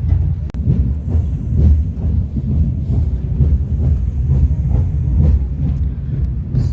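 Train in motion: a steady low rumble with faint repeated knocks from the wheels.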